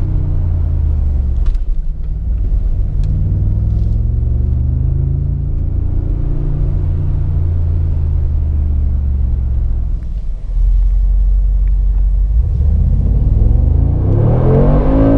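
Mercedes-AMG G63's 4.0-litre biturbo V8 running, its revs slowly rising and falling. Near the end it revs up hard as the car accelerates.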